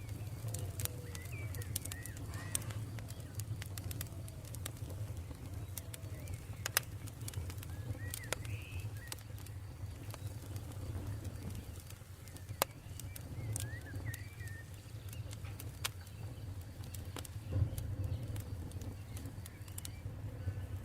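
Campfire crackling, with sharp pops scattered throughout over a steady low rumble, while birds call now and then in the background with short chirps and low coos.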